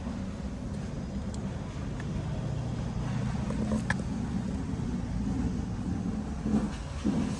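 BMW F450 GS motorcycle engine idling steadily, with a few light clicks and a couple of brief louder knocks near the end.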